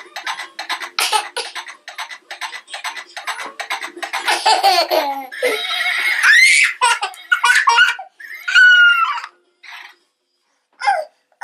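Young child laughing hard in rapid bursts, then breaking into high-pitched squeals.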